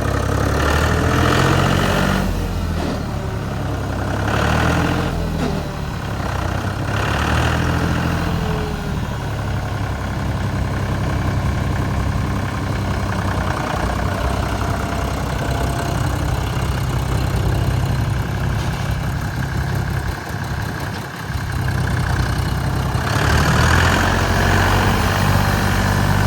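John Deere 5200 utility tractor's three-cylinder diesel engine running at idle, revved up briefly three times early on and again near the end.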